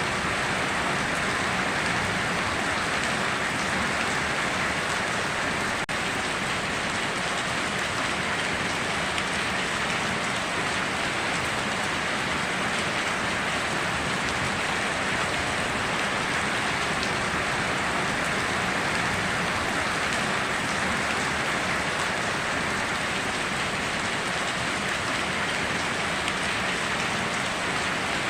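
Steady heavy rain falling on foliage and ground, an even, unbroken hiss.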